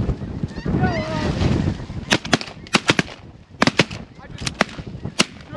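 Snow geese honking, then a volley of about ten shotgun shots fired in quick succession by several hunters at the flock.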